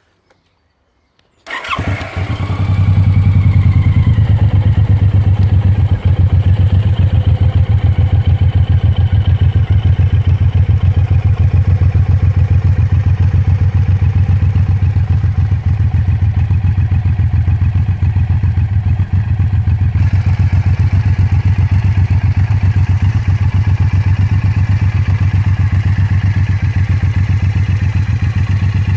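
Suzuki Intruder 1800's V-twin engine starting about a second and a half in, then idling steadily with a loud, low, even exhaust pulse.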